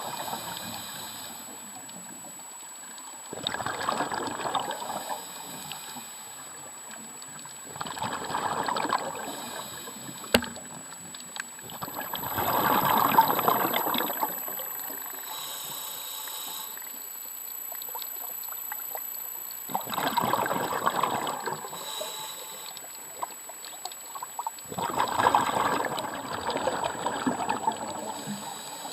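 Water noise swelling and fading in repeated surges about every four to five seconds, over a steady hiss.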